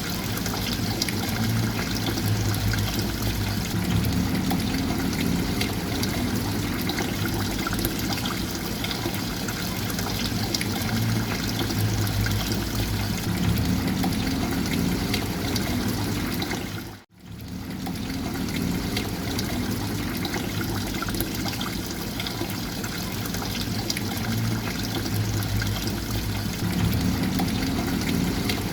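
Running water trickling and splashing steadily. It cuts out for an instant about two-thirds of the way through, then resumes unchanged.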